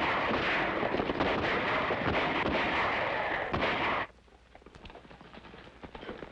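Dense gunfire from an early sound-film battle scene: many rifle and pistol shots overlapping in a continuous loud barrage. It cuts off abruptly about four seconds in, leaving only faint scattered sounds.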